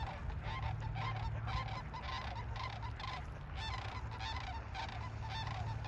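A flock of Canada geese honking, with many short calls overlapping and following one another throughout. A steady low hum runs underneath.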